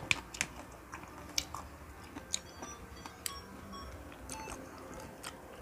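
Close-up mouth sounds of someone chewing pineapple: faint, irregular wet clicks and smacks.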